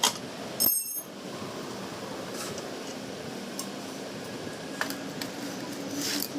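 Scattered light metallic clicks and clinks over a steady background hiss, with one sharper ringing clink a little under a second in.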